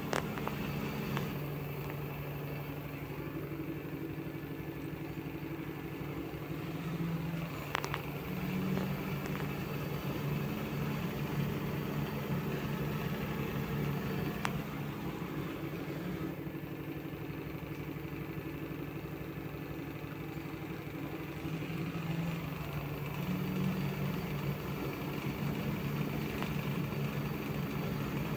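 LG F2T9GW9P front-loading washing machine on a spin-only cycle: the drum spinning with a steady motor hum whose pitch rises and falls slightly every few seconds, and two faint ticks.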